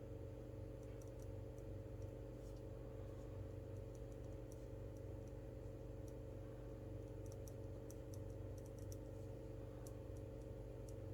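Faint, scattered light clicks of desk work over a steady low electrical hum, bunching into a quick run about two-thirds of the way through.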